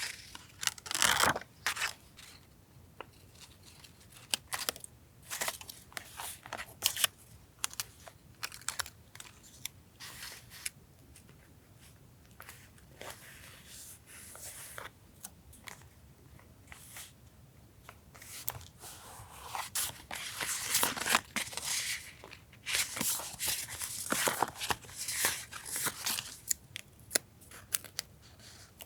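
Paper collage work for a journal: paper and sticker sheets handled, torn and cut, heard as a series of short crisp rips and rustles, loudest about a second in and busiest in the second half.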